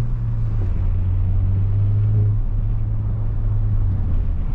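Volkswagen Mk8 Golf GTI's turbocharged 2.0-litre four-cylinder with an X-Force aftermarket exhaust, cruising steadily in comfort mode: a steady low exhaust hum with very little drone.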